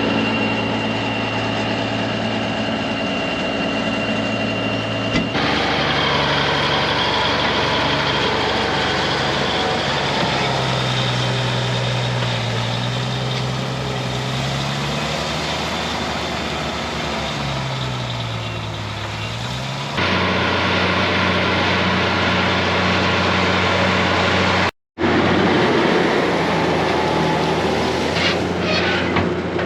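Versatile 835 four-wheel-drive tractor's diesel engine running under load. Its pitch sags and rises again in the middle, and the sound changes abruptly where clips are cut together, twice dropping out for an instant.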